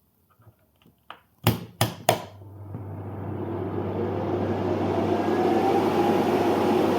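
Three sharp clicks as a 2000W load is switched onto a PowerQueen 2000W inverter, then the inverter's cooling fans spin up, their rushing noise and a faint rising whine growing steadily louder over a low hum.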